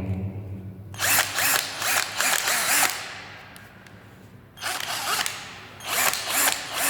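Makita-branded 12 V cordless drill with a brushless motor, its motor run in three bursts: a long one about a second in, a short one near the middle and another long one near the end.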